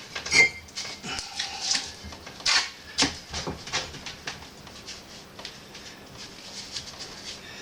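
Bricklaying: a trowel tapping a brick down into its mortar bed and scraping mortar, with sharp knocks in the first few seconds and quieter scrapes after.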